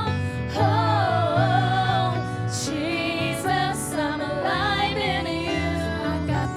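Live gospel worship music: a voice singing a wavering, gliding melody over held chords and a bass line.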